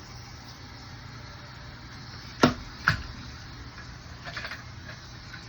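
Two sharp metallic knocks about half a second apart, from handling the backflow preventer's fittings and test connections, over a steady low hum; a few faint clicks follow.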